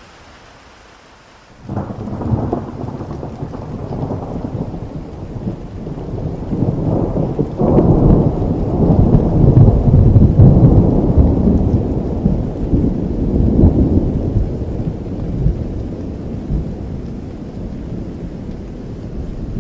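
Steady rain with a long peal of thunder. The thunder breaks in suddenly under two seconds in, rumbles loudest about halfway through, then slowly fades.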